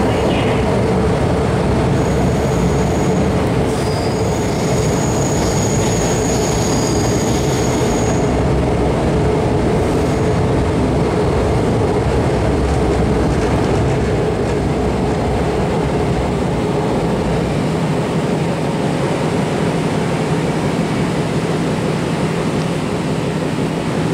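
MTR M-Train electric multiple unit running through an underground station platform without stopping: a steady rumble of wheels on track, with high-pitched wheel squeal from about two seconds in to about eight seconds in.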